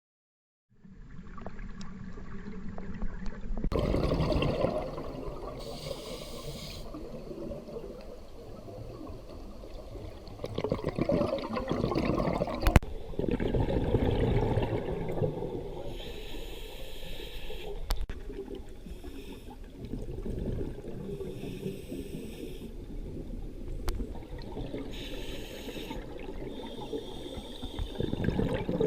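Water sloshing and bubbling, with a hiss that comes and goes every few seconds.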